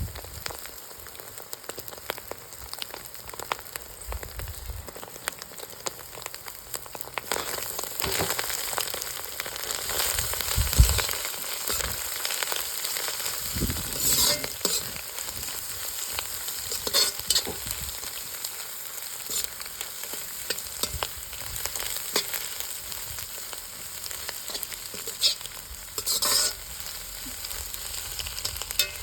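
Food sizzling and crackling in a hot pan as it is stirred for chicken fried rice, with a steady hiss and fine pops throughout. A spatula scrapes and knocks against the pan several times, loudest about halfway through and again near the end.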